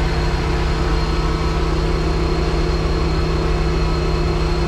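Large engine idling steadily, an even low drone with a few fixed tones.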